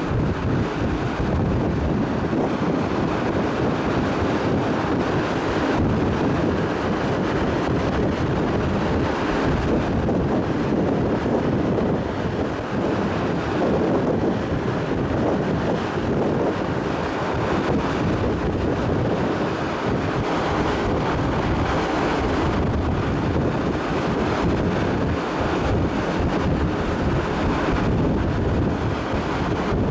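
Wind buffeting the microphone on the open deck of a moving car ferry, over a steady rush of sea water.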